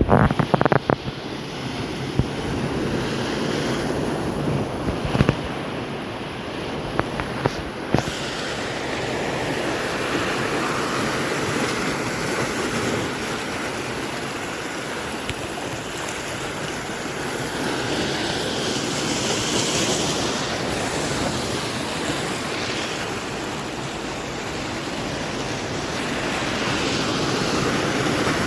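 Heavy swell waves breaking and washing ashore: a steady surf noise that slowly swells and eases. A few sharp knocks in the first eight seconds.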